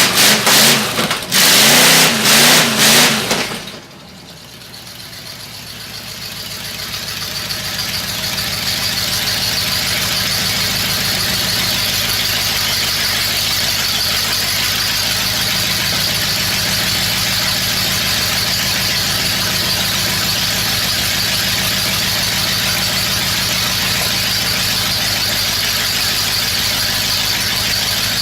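1977 Oldsmobile 350 V8 engine revved in a few hard bursts for the first few seconds, then dropping back suddenly. Its sound then builds over several seconds to a steady, loud run with a bright high hiss over the engine note.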